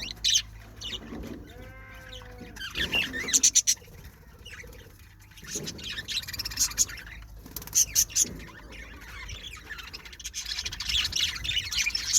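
Budgerigars chirping and chattering, a busy mix of high chirps and warbles with a few loud sharp calls about three and a half seconds and eight seconds in.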